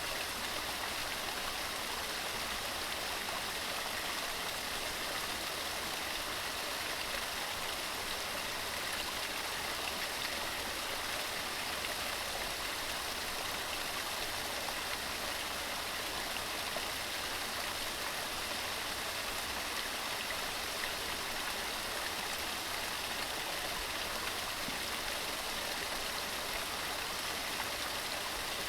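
Waterfall: water tumbling over rocks in a steady, unbroken rush.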